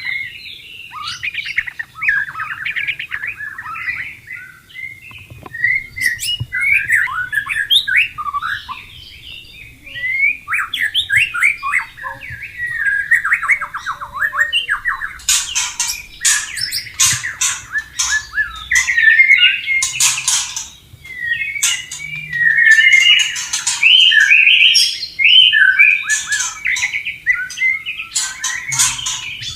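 White-rumped shama singing a fast, varied song of whistled phrases. From about halfway through, harsh, scratchy chattering notes are mixed in.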